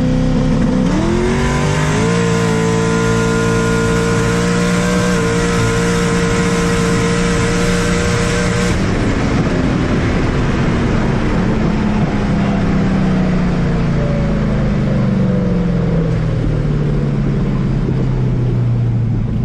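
A vehicle making a drag-strip pass: its pitched drive sound climbs quickly at the launch, holds steady at the top for several seconds, then falls slowly over about ten seconds as it slows down.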